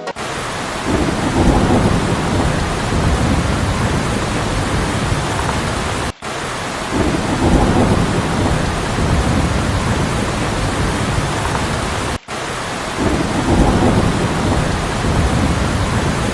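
Heavy rain falling, with a low rumble of thunder swelling and fading in each of three near-identical stretches. The sound cuts out briefly twice, about six seconds apart, where the stretch repeats.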